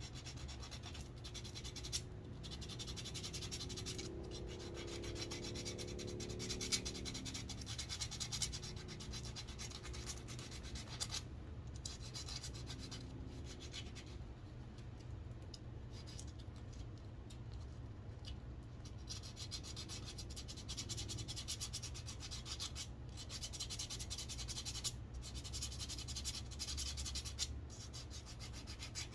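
Sandpaper rubbing on a wooden walking stick: a continuous scratchy rasp with brief pauses between strokes, over a low steady hum.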